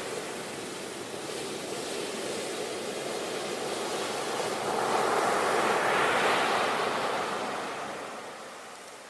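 Sea waves washing onto the shore: a steady surf rush that swells as a wave breaks about halfway through, then ebbs away near the end.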